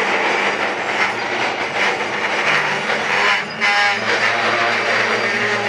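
Freight train of steel hopper cars rolling slowly past at walking speed: wheels rumbling and clanking over the rails, with a steady low hum underneath.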